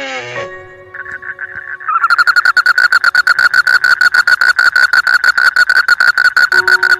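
Frog calling: a rapid pulsed trill of about eight pulses a second. It begins softly about a second in and turns loud at about two seconds.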